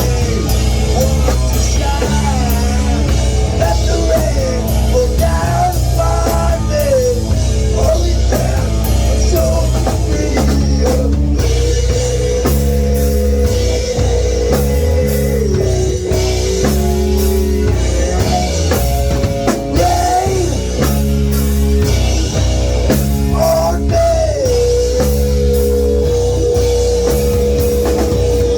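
A heavy rock band playing loudly, with a drum kit, guitars and bass. A melody line of gliding and long held notes rides over a driving beat.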